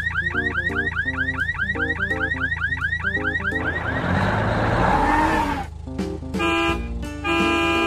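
Cartoon sound effects over background music: a fast warbling electronic chirp like a car alarm, about six chirps a second, for nearly four seconds. Then a noisy whoosh with a falling tone, and two short horn-like honks near the end.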